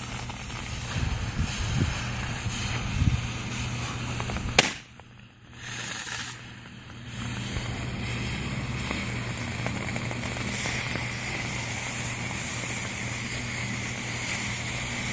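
Fireworks going off: a steady hiss of burning fuses and fireworks, with one sharp firecracker bang about four and a half seconds in.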